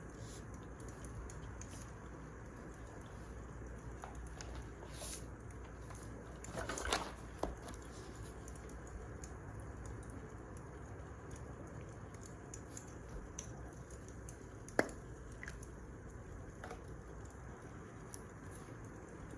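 Wood fire crackling: a steady soft hiss with scattered small pops, a brief flurry of crackle about seven seconds in and one sharp pop near fifteen seconds.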